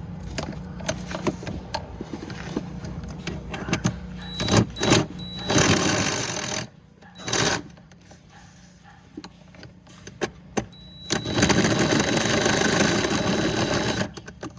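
A small motorised hand tool running in two bursts, about a second long and then about three seconds long with a steady high whine, between scattered clicks and knocks of hand work on the car.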